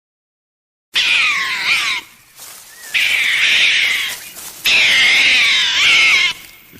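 An animal calling: three long, wavering, high-pitched cries in a row, starting about a second in after silence.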